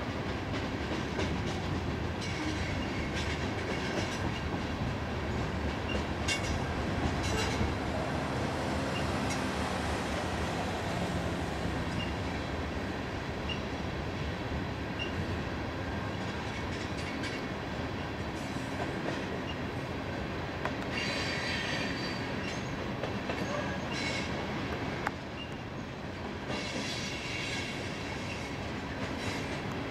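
Loaded coal hopper cars of a freight train rolling past steadily: a continuous rumble and clatter of steel wheels on rail, with a few brief higher-pitched screeches of wheel squeal.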